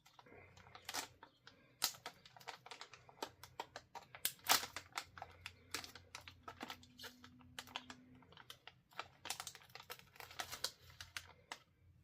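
Plastic snack packaging being handled and opened by hand: a rapid, irregular series of crackles and clicks.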